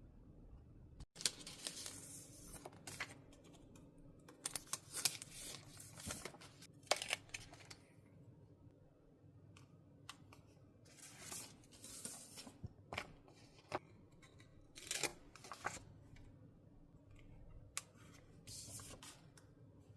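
Stationery work on a journal page: paper being cut and handled in five or six short rustling bouts, with small sharp clicks in between.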